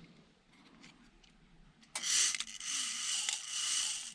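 A few faint clicks, then from about two seconds in a scraping, rustling rub in long strokes as parts of an electricity meter are handled during a teardown.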